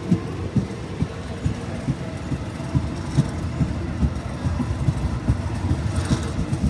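Passenger train running, heard from inside a carriage at an open window: a steady rumble with frequent, uneven low knocks from the wheels on the track.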